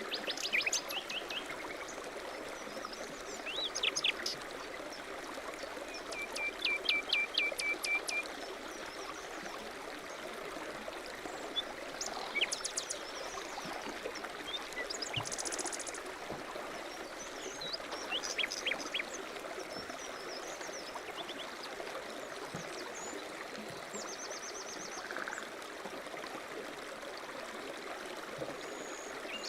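A mountain stream running steadily, with several birds calling over it in short chirps and rapid trills.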